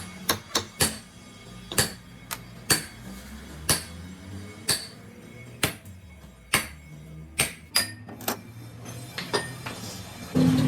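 Hammer blows on metal, about one a second with some quick doubles, each strike ringing briefly. Near the end a machine starts up and runs loudly and steadily.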